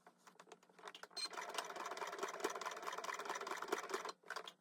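Sewing machine stitching fast, the rapid needle strokes of free-motion thread painting. It starts about a second in and stops briefly near the end.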